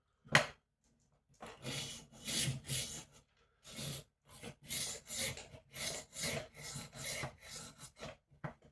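Kitchen knife blade being drawn back and forth against the coarse disc of a rolling knife sharpener: a rasping rub about twice a second, in two runs with a short pause between. A single sharp knock comes just before the strokes begin.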